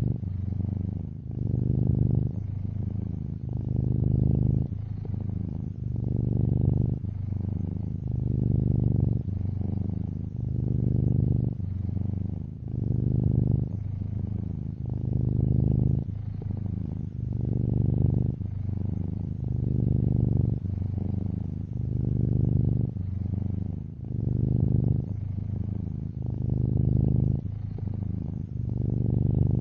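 Domestic cat purring close up: a low, continuous rumble that swells and eases about every two seconds with its breathing in and out.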